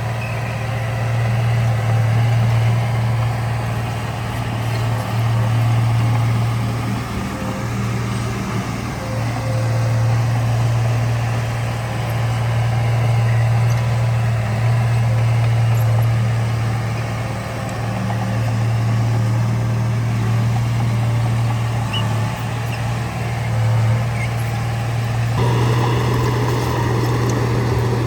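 Heavy construction machinery's diesel engine running steadily with a deep hum; a few seconds before the end the sound becomes fuller and harsher.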